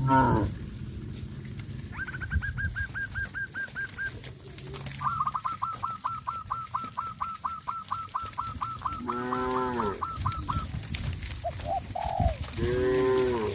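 Farmyard birds calling. A run of fast, evenly repeated high notes, about a second in and again for several seconds after, is joined by two drawn-out calls rising and falling in pitch. Short coos come near the end.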